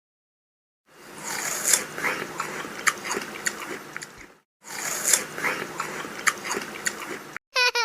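Crunchy chewing and biting, in two stretches of about three seconds each with many sharp crackles and clicks, split by a brief pause. A short warbling squeak comes right at the end.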